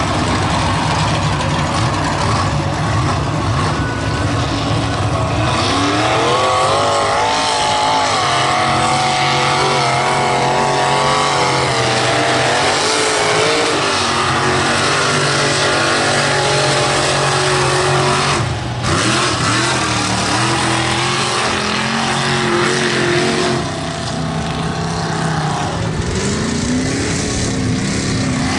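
Mega mud truck engine revving hard under full throttle, its pitch climbing and wavering as the revs rise and fall. It briefly cuts back about two-thirds of the way through and climbs again near the end.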